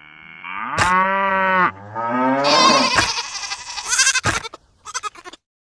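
Drawn-out animal mooing, several calls in a row over about three seconds, with a short sharp knock near the end.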